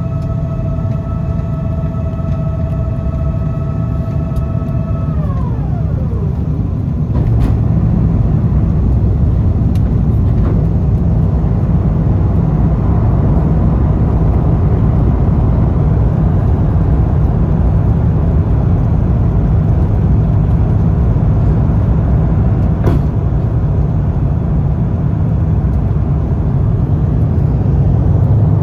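Airbus A350-900 cabin noise: a steady whine with several overtones glides down and fades about six seconds in. Then a loud low rumble from the engines and airframe builds and holds.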